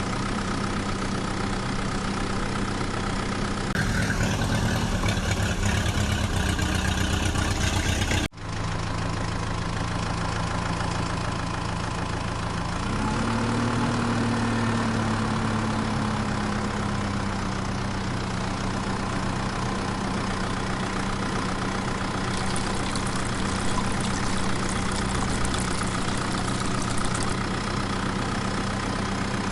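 Heavy vehicle engine idling steadily. About four seconds in, a louder, rougher engine sound comes in and cuts off abruptly a few seconds later. Around thirteen seconds in, the engine revs up a little and settles back to idle.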